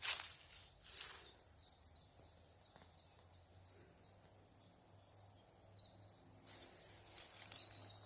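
A bird singing a long run of short, high, evenly repeated notes, faint, with a sharp rustle or knock right at the start and another about a second in.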